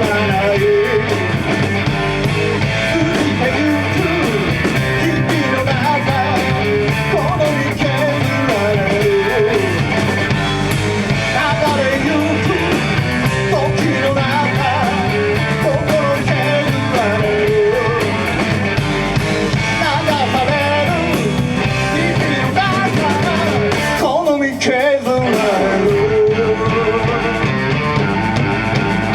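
Rock band playing an instrumental passage: electric guitar over bass and drum kit, with a short break in the drums about three quarters of the way through.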